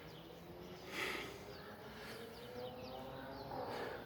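Wild birds chirping in the morning: many short, quick falling chirps over faint outdoor background noise, with a brief rush of noise about a second in.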